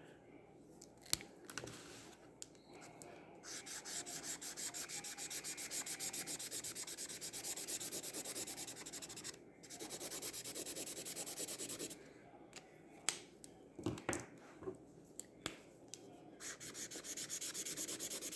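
Acrylic paint marker nib scratching rapidly back and forth on mixed media paper, colouring in an area in quick, even strokes. The strokes come in three long spells, with a few sharp clicks in the pauses between them.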